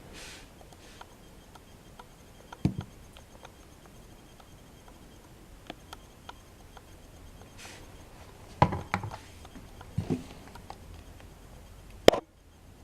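Handling noise: a few scattered knocks and light clicks over a faint steady hiss. The sharpest click comes near the end.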